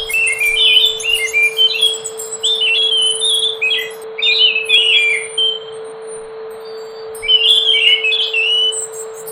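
Scaly thrush (anis macan) singing in bursts of quick, fluty warbled phrases with short pauses between them, over a steady low hum.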